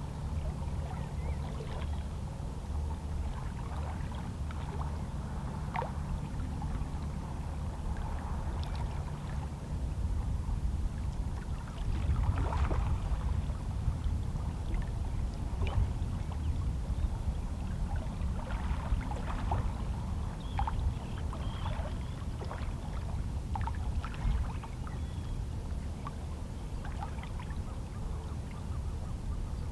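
Calm sea: small waves lapping and splashing irregularly against shoreline rocks over a steady low wash of water, with a somewhat bigger splash about twelve seconds in.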